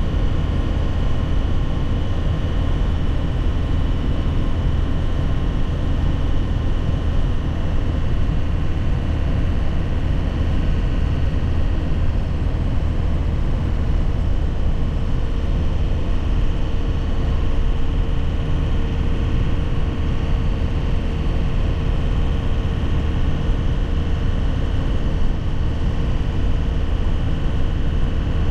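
2001 Nissan Cabstar light truck's diesel engine running at a steady cruise under a low rumble of tyre and road noise, heard from inside the cab.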